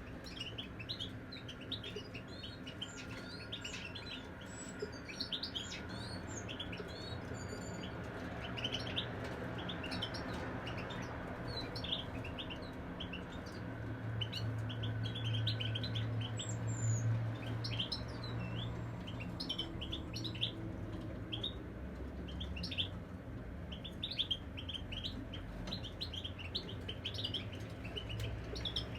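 Caged European goldfinches singing: a fast, continuous stream of bright twittering chirps. A steady low hum runs underneath and swells briefly in the middle.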